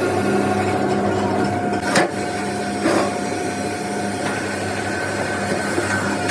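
A steady machine hum in a truck body repair workshop, with two sharp knocks about two and three seconds in, typical of metal being struck.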